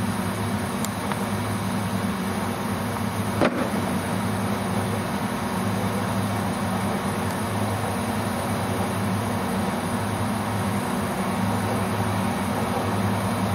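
Steady low hum of an idling vehicle engine, with one sharp click about three and a half seconds in.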